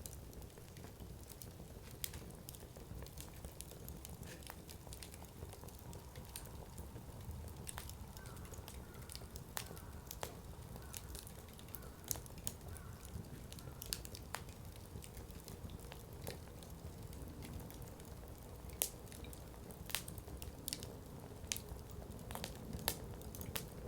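Wood campfire crackling in a Coleman Fire Disc: irregular sharp pops and snaps of burning firewood over a low, steady rumble, with a few louder pops in the second half.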